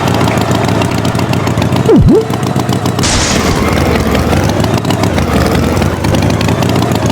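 Cartoon engine sound effect, a loud rattling engine running steadily. About two seconds in comes a quick swooping sound that dips and rises back, and about a second later a short burst of hiss.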